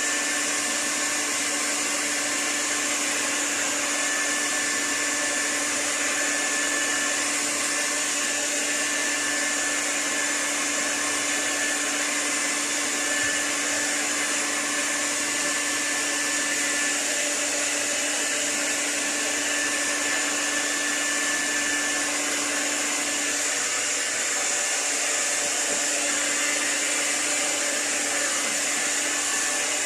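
Hair dryer running steadily: a rush of blown air with a low motor hum and a thin high whine.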